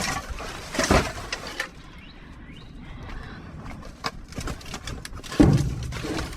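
Trash in a dumpster being rummaged through by hand: rustling and clattering of items, quieter for a couple of seconds in the middle with a few clicks, then a loud thump about five seconds in.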